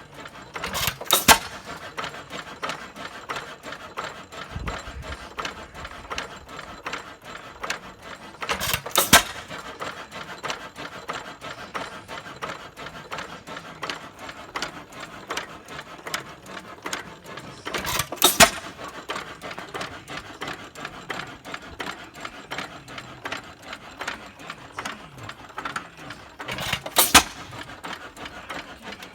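6 hp Associated single-cylinder hit-and-miss engine running without a muffler: a short loud burst of firing about every nine seconds, and between the bursts a fast steady clatter of valve gear and governor as it coasts on its flywheels.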